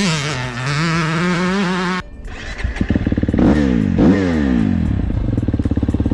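Dirt bike engines revving up and down, mixed with background music. About two seconds in, the sound cuts abruptly to a choppier engine note that rises and falls in pitch.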